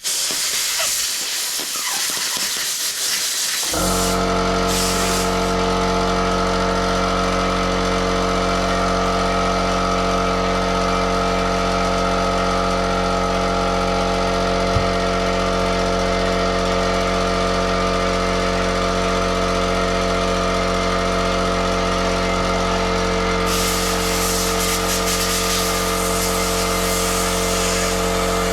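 Compressed-air blow gun hissing as it blows out small carburettor parts. About four seconds in, the small-tank air compressor's motor cuts in, set off by the tank pressure dropping, and runs steadily. Further blasts of air come near the end.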